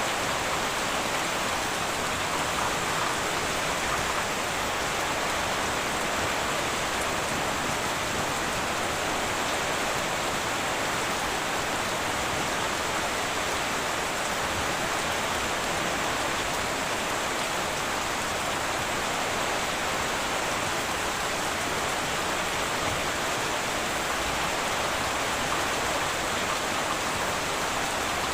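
Heavy rain falling steadily on a tin roof, an even hiss with no breaks.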